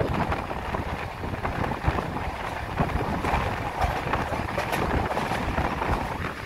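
Passenger train coaches running at speed: a steady rumble of wheels on the rails with scattered clicks, and wind rushing past an open coach window.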